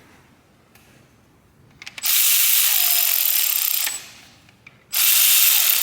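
Compressed-air tool running in two bursts of about two seconds each, a loud hiss with nothing low in it, most likely an air ratchet running down the connecting-rod cap bolts on a Cummins 6BT.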